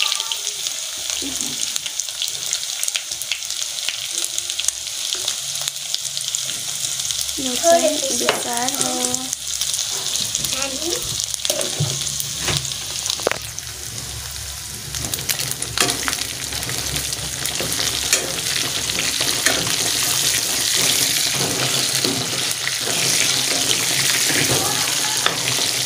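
Chicken pieces and onion frying in hot oil in an aluminium kadai, sizzling steadily with sharp crackles, and a metal ladle clinking and scraping against the pan. The meat is being browned in oil before the spices go in. The sizzle grows louder in the second half.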